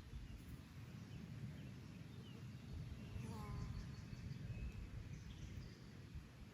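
Faint bird calls and chirps over a steady low rumble, with one short call falling in pitch about three seconds in.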